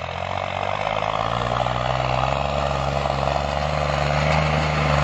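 New Holland tractor's diesel engine revving up over the first couple of seconds, then running steadily at high revs and growing louder.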